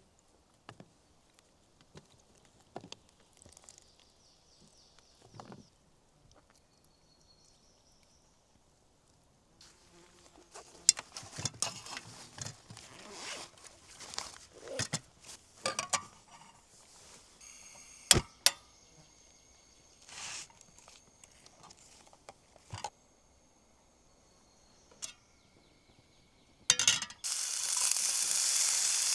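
Scattered clicks and knocks of cooking gear being handled, busiest around the middle. About two seconds before the end, food hits a hot pan and starts sizzling loudly and steadily.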